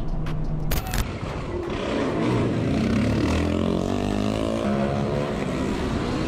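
Motorcycle engine accelerating, its pitch rising over a few seconds, after a brief sharp crackle about a second in.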